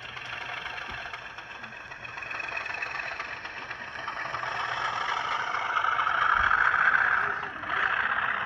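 Model train running along the track, its motor and wheels growing louder over several seconds as it comes closer, with a brief dip near the end.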